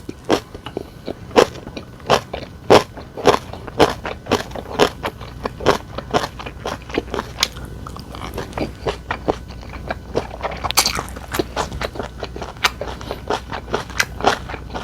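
Close-up eating sounds: chewing with many irregular wet crunches and clicks, and a louder crunching bite about eleven seconds in.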